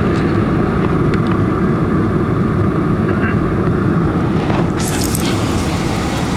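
Boeing 747-400 landing: a steady, loud roar of engines and rushing air, joined a little over four seconds in by a sudden, louder hissing rush.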